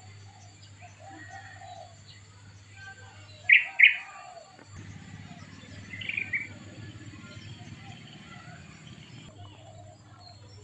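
Small birds chirping: two sharp, high chirps close together about three and a half seconds in and a shorter run of chirps around six seconds, over fainter chirping and a low steady hum.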